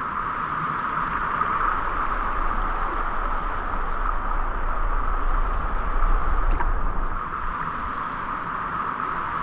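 Steady hiss of water, even and unbroken, with a low rumble underneath.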